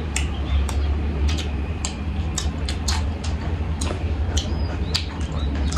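Close-up eating sounds: irregular wet mouth clicks and smacks from chewing fried chicken and rice and licking fingers, about two or three a second, over a steady low hum.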